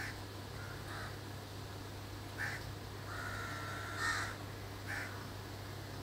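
A bird calling in short calls, about five in six seconds, the loudest about four seconds in, over a steady low hum.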